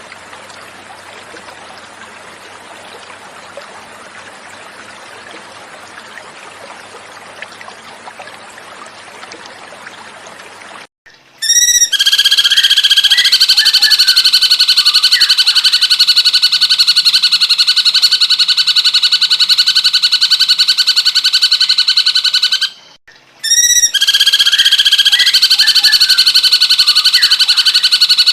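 Gently running water for about eleven seconds, then a cucak cungkok's call starts abruptly and loudly: a fast, continuous, high-pitched trill. It breaks off briefly near the end and resumes.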